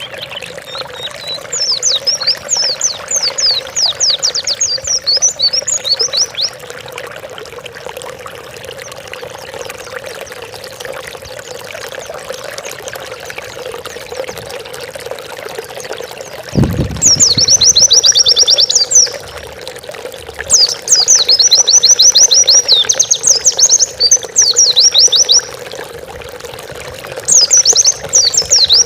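White-eye (pleci) singing long, fast trilled phrases of high rapid notes, four times, over a steady running-water background; a brief low thump just before the second phrase.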